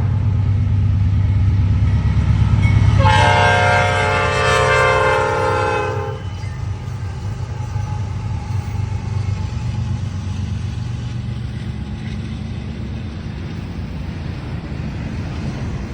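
Norfolk Southern EMD SD70ACe diesel locomotive passing under load, its engine rumbling loudly, with its horn sounding a chord about three seconds in for about three seconds. After that the train rolls by steadily and more quietly.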